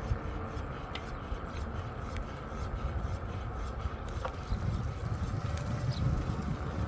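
Low rumbling wind and road noise on a handheld phone's microphone while riding a bicycle over a bumpy surface, with scattered small clicks and rattles.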